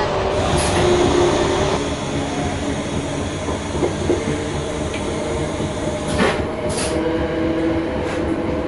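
Passenger train running, heard from inside the carriage: a steady rumble of wheels on rail with faint humming tones that shift in pitch. A few sharp clicks come about half a second in and twice around six to seven seconds in, as the wheels pass over rail joints or points.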